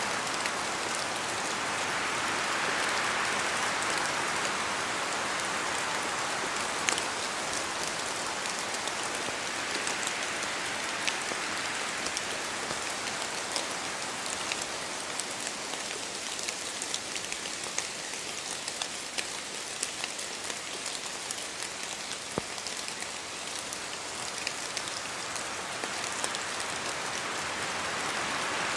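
Steady rain in a forest, with scattered louder single drops falling from the trees, and wind rushing through in gusts that swell near the start and again near the end.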